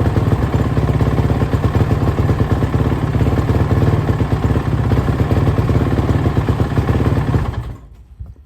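Suzuki RM-Z450 dirt bike's carbureted single-cylinder four-stroke engine running erratically, its revs jumping about, then shut off near the end and dying away. The owner takes the poor running for a lean condition: too much air, not enough fuel.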